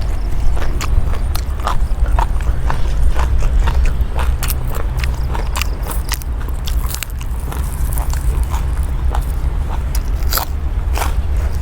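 Close chewing and biting of crunchy food, pounded long-bean salad with raw vegetables, with irregular crisp crunches, over a steady low rumble.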